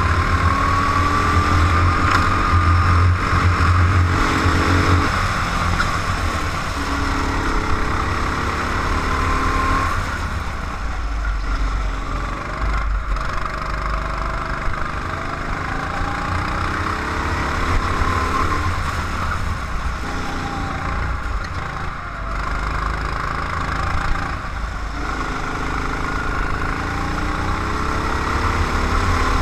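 Racing vehicle's engine heard onboard during a lap. It speeds up in repeated rising sweeps, drops sharply, then climbs again several times, with steady wind and road rumble underneath.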